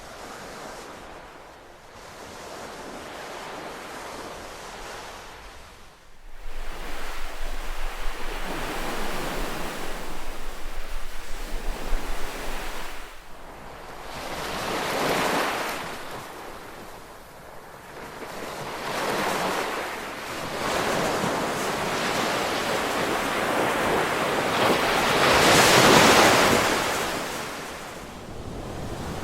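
Ocean waves breaking and washing ashore in slow surges that swell and fade several times. The loudest wave comes near the end.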